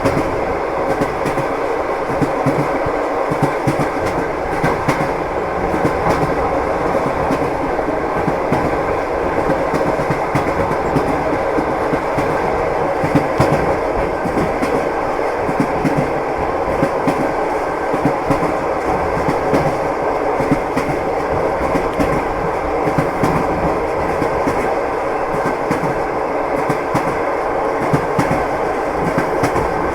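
Train wheels clattering over the rail joints as the train runs steadily along, over a continuous rumble, with frequent light knocks throughout.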